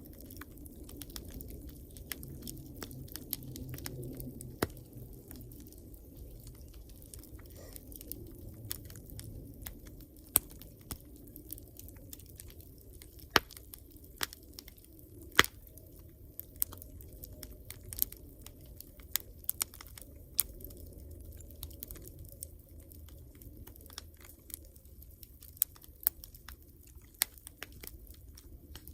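Wood campfire burning, with irregular sharp crackles and pops over a low steady rumble of the flames.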